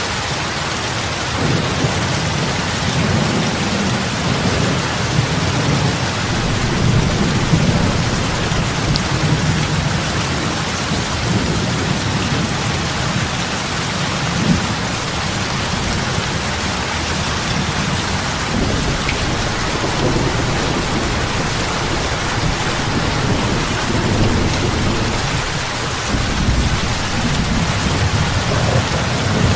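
Heavy rain falling steadily on open lake water, a dense, even hiss of drops and splashes with a deep low end that swells and fades every few seconds.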